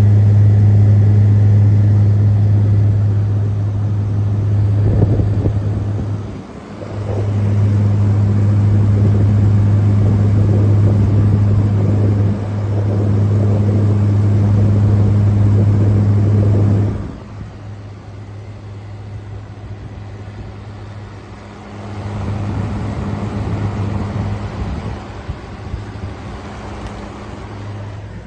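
Air conditioner compressor running with a steady low hum under the rush of its condenser fan. The hum dips briefly twice, falls away about two-thirds of the way through, and returns weaker near the end.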